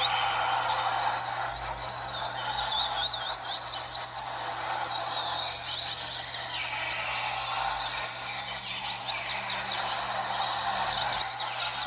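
Many double-collared seedeaters (coleiros) singing at once, a dense tangle of quick, high, falling chirps with no pause, over a steady background noise.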